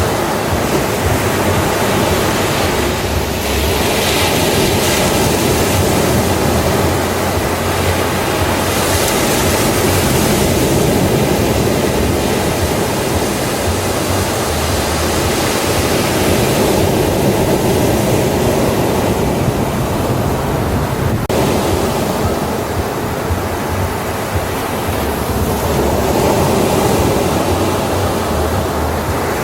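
Ocean waves breaking on a beach, a continuous surf wash that swells and recedes every few seconds.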